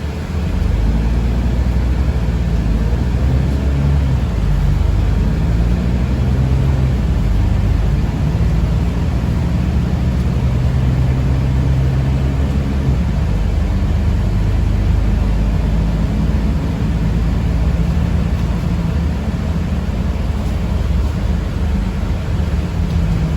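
Cabin noise inside a moving city bus pulling away from a stop: a steady low rumble of drive and tyres, and a low hum that rises and falls in pitch.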